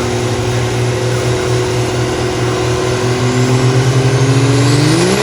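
A high-horsepower diesel truck engine pulling hard under load, likely on a chassis dyno. Its pitch climbs slowly, then sweeps sharply up near the end, while a high turbo whistle rises with it.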